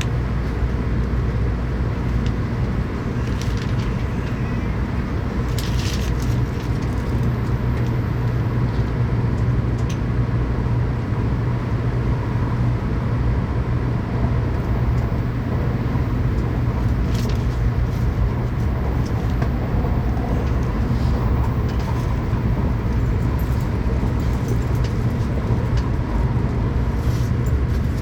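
Tokaido Shinkansen train running steadily at speed, heard inside the passenger car: a constant low rumble with a steady hum and a few faint brief clicks.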